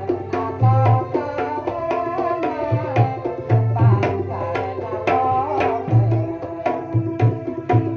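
Kendang pencak silat drumming in East Javanese keplak style: a fast run of sharp slaps mixed with deep booming low strokes, over a wavering melody line.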